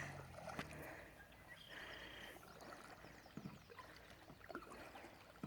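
Quiet water sounds from a kayak on the water: faint lapping and dripping, with a few soft knocks and a brief high tone about two seconds in.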